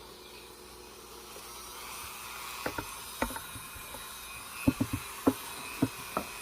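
Dremel 4300 rotary tool with a scroll bit running at high speed with a steady high whine as it carves letters into the wood. The whine builds slightly over the first two seconds. In the second half, a series of sharp knocks and taps sounds over it.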